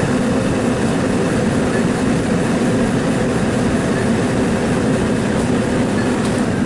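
Steady, loud mechanical rumble with a constant low hum.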